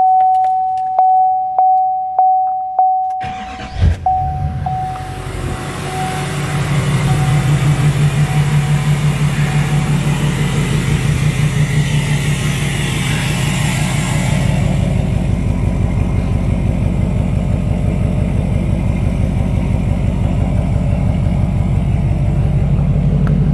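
A chime repeats about once a second, then a cold LML 6.6L Duramax diesel (emissions-deleted) cranks and fires about three to four seconds in. It runs on loud at cold idle, settling a little about ten seconds later.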